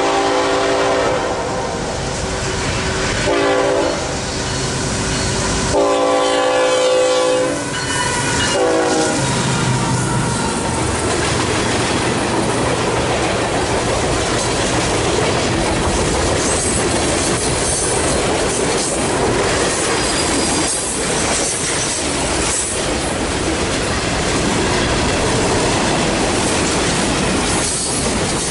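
Freight train horn, a Nathan K5HL five-chime, sounding the last blasts of its crossing signal: a short blast, then a long one that drops in pitch as the lead GE diesel locomotive passes. The locomotives' engines rumble by, then the freight cars roll past with steady wheel clatter over the rail joints.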